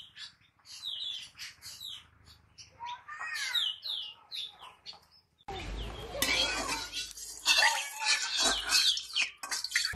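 Birds chirping: many short, quick chirps that sweep downward in pitch, repeated over and over. About halfway through, a steady hiss with a low rumble starts suddenly under the chirps.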